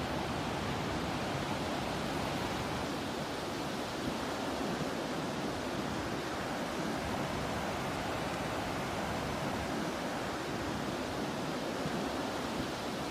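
Ocean surf and sea breeze making a continuous, even rushing noise with no distinct waves, calls or other events standing out.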